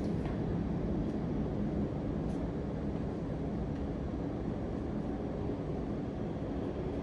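Steady low background rumble with no speech, and a few faint soft ticks over it.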